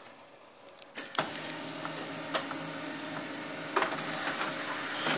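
HP LaserJet Pro MFP M127fw's automatic document feeder starting up with a few clicks about a second in, then its motor and rollers running steadily as they pull a sheet in, with occasional clicks. This is a feeder that jams, stopping the sheet at the same point every time.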